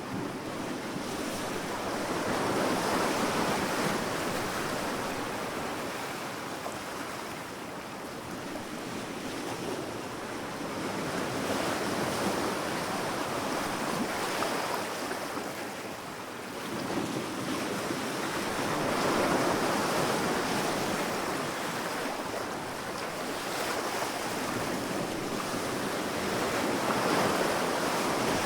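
Sea waves breaking and washing onto a sandy beach, the surf rising and falling in slow swells about every seven or eight seconds.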